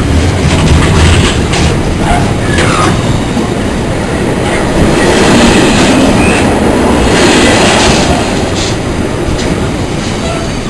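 A train running past at close range, its wheels clattering over rail joints.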